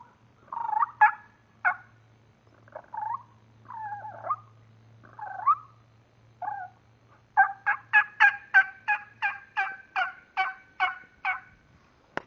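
A man imitating wild turkey calls with his own voice, no call device: scattered short clucks and purr-like notes, then a fast, evenly spaced run of about fourteen notes, roughly three or four a second, starting about seven seconds in.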